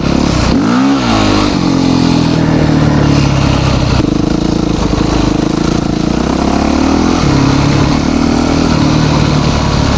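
Yamaha YZ450 dirt bike's single-cylinder four-stroke engine running while being ridden. The revs drop and pick back up about a second in, then hold fairly steady, with small changes in pitch around four and seven seconds in.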